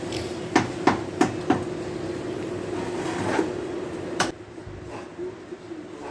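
A run of sharp knocks, about three a second, fading out after a second and a half, then one sharper click about four seconds in, over a steady low hum.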